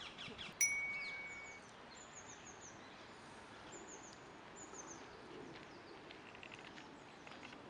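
A single bell-like ding about half a second in, ringing out for about a second, over faint outdoor ambience. Small wild birds call faintly throughout in short runs of high, thin, falling notes.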